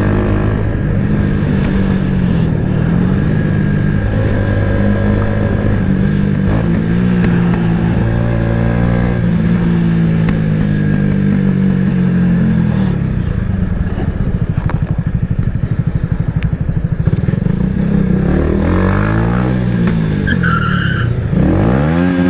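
Motorcycle engine running loudly under way, its pitch repeatedly rising and falling as the rider opens and closes the throttle.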